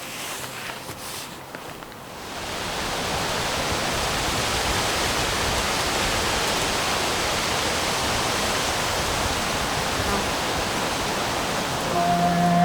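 Steady rushing of wind through the trees, swelling up about two seconds in and then holding even; music comes in near the end.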